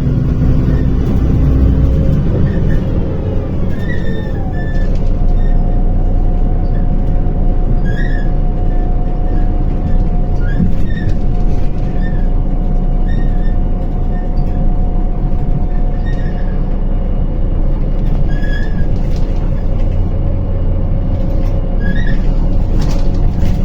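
Inside a MAZ-105 city bus under way: a loud, steady rumble of engine and road. About two seconds in, the engine note drops away and a whine glides down, then holds one steady pitch, with short high squeaks and rattles about once a second.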